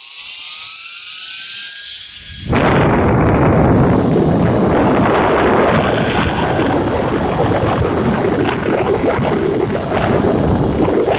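EV-0.5-1640 115 V, 400 Hz electric fan fed from a frequency converter, its whine rising in pitch as it speeds up. About two and a half seconds in, a loud, steady rush of air cuts in sharply.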